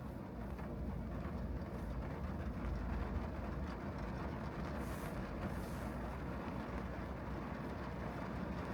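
Steady low rumble of a car driving on wet city streets, with tyre and road noise. Two brief high hissing swishes come about five and six seconds in.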